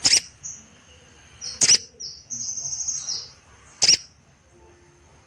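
Sogon birds calling: three loud, sharp calls about two seconds apart, with short high notes between them and a held high whistle of about a second between the second and third call.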